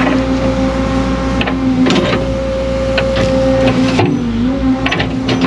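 Excavator engine and hydraulics running at steady working revs while the bucket digs, with scattered knocks and scrapes of the bucket against stone and soil. About four seconds in, the engine note dips and wavers as the hydraulics take load.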